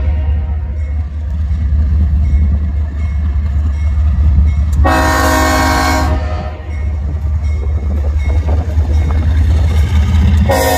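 Diesel freight locomotive's multi-chime air horn: one blast of about a second and a half near the middle, with the next blast starting right at the end. Under it runs the steady low rumble of the train.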